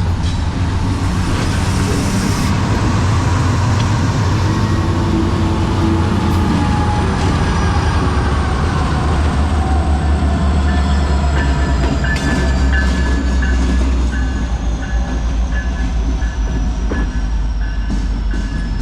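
A freight train rolling past close by: a loud, steady heavy rumble of rail cars on the track, with thin high squealing tones over it that slowly fall in pitch and, from about halfway through, pulse in short, even dashes.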